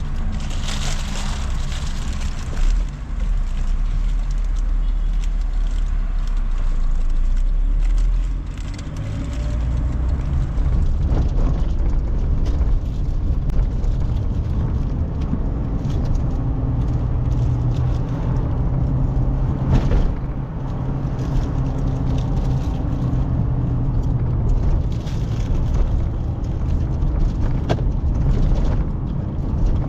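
Car engine humming and road noise heard from inside the cabin while driving, steady throughout, with a few brief knocks.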